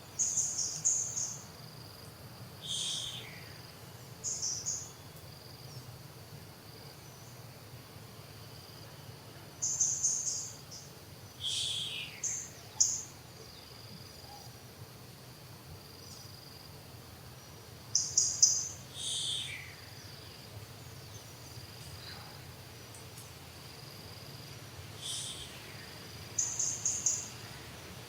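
Short, very high-pitched animal calls in bursts about every eight seconds, each burst a quick run of chirps and a squeal falling in pitch, over a thin, steady, insect-like high tone.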